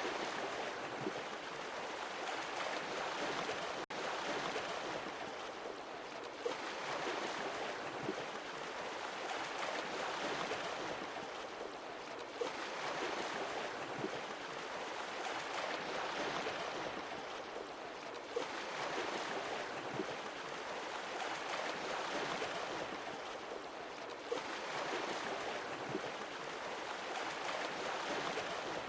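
Sea waves washing in, swelling and fading away in a slow rhythm about every six seconds.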